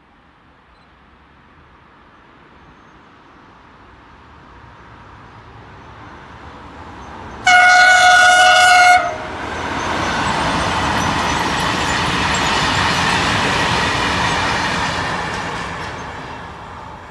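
A train running through a station: its rumble grows, then about halfway through it gives one held horn blast of about a second and a half. The loud rush of the train passing follows and fades away near the end.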